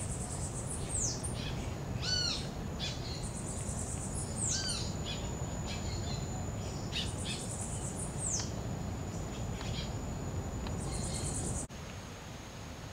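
Birds calling: a short arching call repeated in little groups about every two seconds, with high buzzy trills between them and a thin steady high-pitched tone from about four seconds in, over a low steady rumble. The sound drops abruptly near the end.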